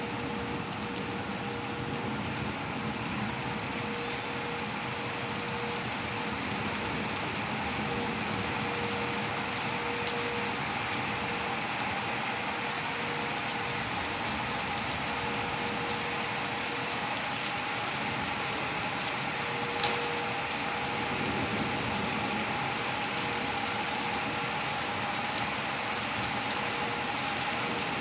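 Thunderstorm rain falling steadily, an even hiss of drops on surfaces, with one brief sharp click about twenty seconds in.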